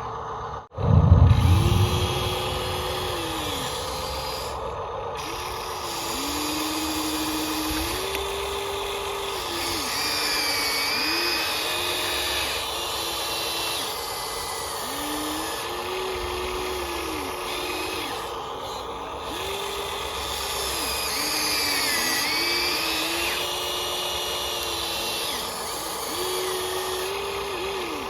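Electric gear motors of an RC toy construction machine whining as they start, run and stop over and over, their pitch stepping up and down with each movement. Higher wavering tones come in twice.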